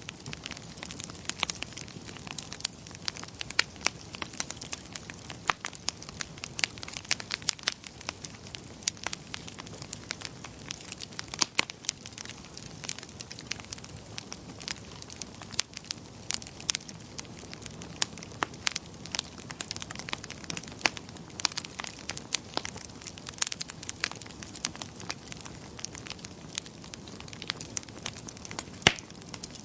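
Wood fire crackling in a fireplace: irregular sharp pops and snaps, several a second, over a steady low hiss of the burning.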